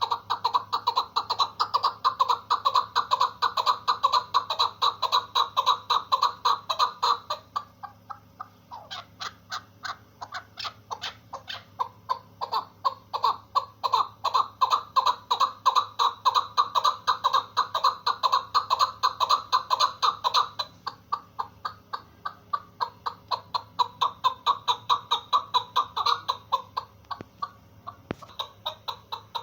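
Female chukar partridge calling: a long unbroken run of short clucking notes, several a second, dropping softer for a few seconds about a third of the way in and again later before picking up.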